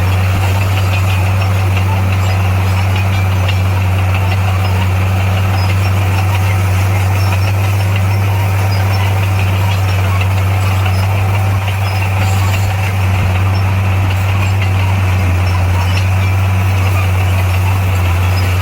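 Heavy earthmoving machine's diesel engine running at a steady pitch, an even low drone with no revving.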